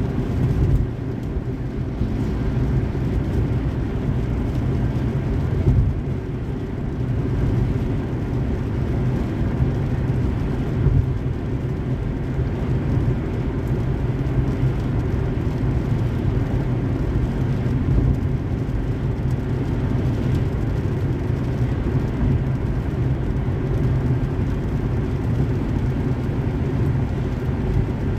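Car driving on a highway: a steady low rumble of road and engine noise, with a few small bumps along the way.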